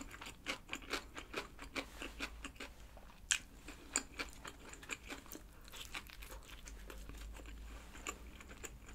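Close-miked chewing of a mouthful of meat pizza: soft, faint crunches a few times a second, with one sharper crunch about three seconds in.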